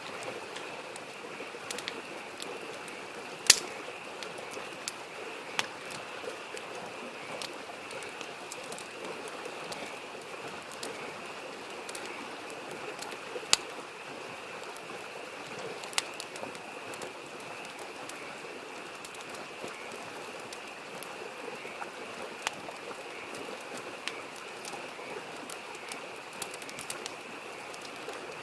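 Wood campfire crackling, with scattered sharp pops, the loudest about three and a half seconds in and again around thirteen and sixteen seconds. Under it runs the steady rush of a small stream and a continuous chorus of frogs calling.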